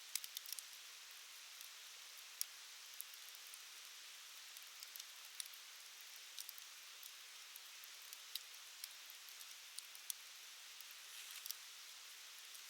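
Wood fire burning on a UNIFLAME Fire Stand: a soft steady hiss with irregular sharp crackles and pops, a quick cluster of them near the end.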